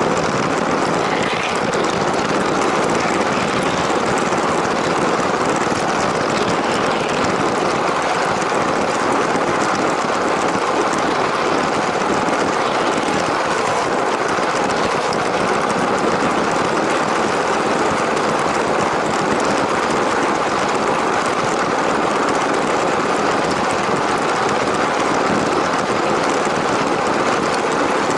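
LEGO train's electric motor and wheels running steadily on plastic track, an even mechanical noise.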